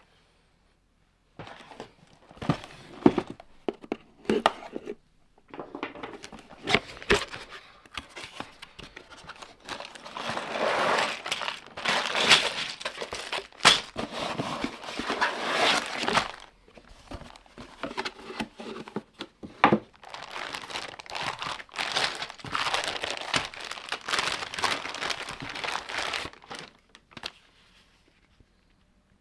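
Plastic Lego parts bags crinkling and tearing as they are handled and opened, in stop-start spells with sharp clicks and two longer stretches of crinkling; it dies away near the end.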